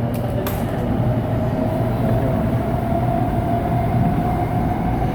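LRT Line 2 train running, heard from inside the passenger car: a steady low rumble with a motor whine that rises slowly in pitch as the train gathers speed. A single short click comes about half a second in.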